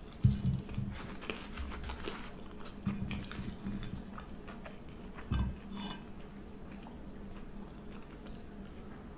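Close-up eating sounds: chewing and biting food, with light clicks of cutlery against a dish. Three louder, dull thumps come about a second apart from each other near the start, around three seconds in, and around five and a half seconds in.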